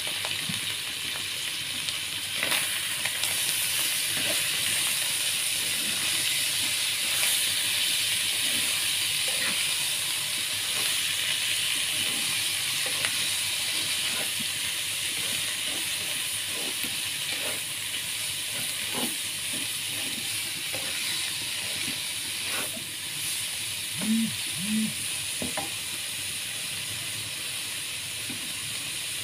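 Bitter gourd slices frying with anchovies, tempeh and spice paste in a pan: a steady sizzle, with short clicks of a spatula stirring now and then and two brief low knocks near the end.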